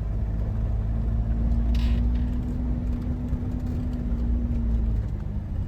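Campervan engine pulling slowly in first gear, heard from inside the cab: a steady low rumble, with a held engine note that comes in after about a second and fades out near the end.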